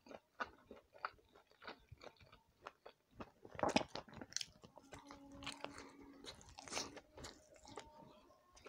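Close-up mouth sounds of eating a soft steamed rice dumpling (manda pitha): wet chewing with many small lip smacks and clicks, and a louder bite about three and a half seconds in.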